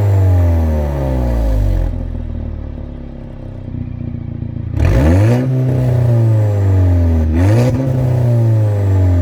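2011 VW Golf GTI mk6's turbocharged 2.0-litre four-cylinder, with a Revo Stage 3 tune and K04 turbo, through a 3-inch Milltek exhaust. Revs fall back and settle for a couple of seconds, then two sharp throttle blips about five and seven and a half seconds in each rise quickly and fall away.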